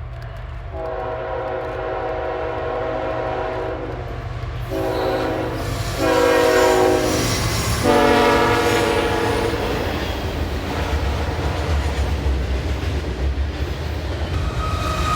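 Locomotive air horn with several tones sounding four times: one long blast, two short ones and a final longer one, typical of a train whistling for a grade crossing. A steady low rumble of the train runs underneath and grows louder after the horn.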